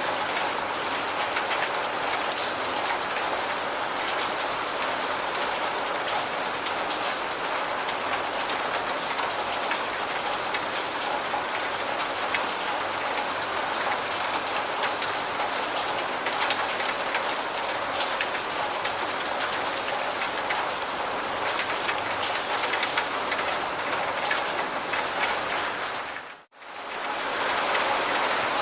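Steady rain falling, an even hiss dotted with many individual drop patters. About 26 seconds in it briefly fades almost to silence and swells back, like a loop seam in the recording.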